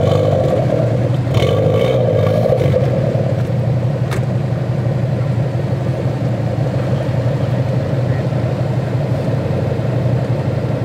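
Two cars idling side by side, a Chevrolet Camaro Z28 and an Audi A4, with a steady, loud low engine rumble; the engines run a little busier in the first few seconds, and there is a single sharp click about four seconds in.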